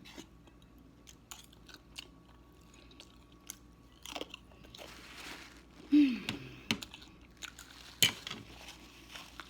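Close-miked mouth sounds of a person eating: chewing with small wet clicks and smacks. About six seconds in comes a short falling hum-like vocal sound, the loudest moment, and a sharp click follows near eight seconds.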